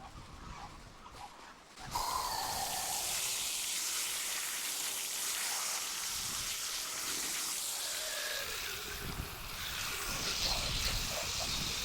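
Steady rush of running water that starts suddenly about two seconds in.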